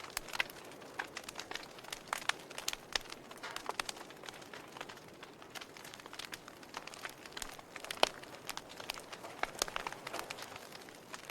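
Wood fire crackling: irregular sharp pops and snaps over a soft steady hiss, with one louder pop about eight seconds in.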